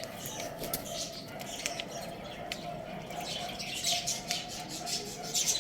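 Small birds chirping and chattering in quick, overlapping high calls, busier in the second half.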